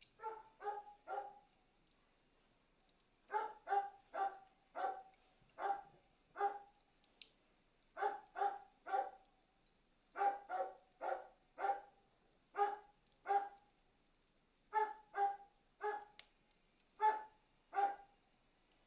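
A dog barking repeatedly: about two dozen short, clear barks in runs of three to six, with short pauses between the runs.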